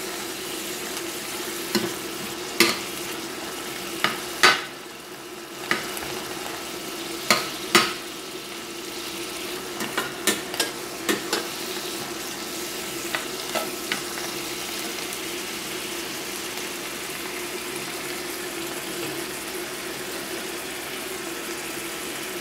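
Chicken intestines and garlic sizzling as they are stir-fried in a stainless steel pan, over a steady hum. A metal spatula scrapes and knocks against the pan in sharp clacks through the first half.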